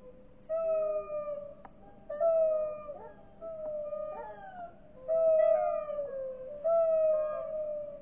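Bird calls played back slowed down, so that they sound deep and drawn out: a run of long calls, each dropping slightly in pitch, some of them overlapping.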